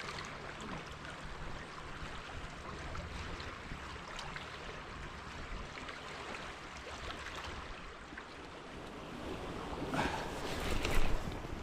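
Steady rush of flowing river water, with wind buffeting the microphone in louder gusts near the end.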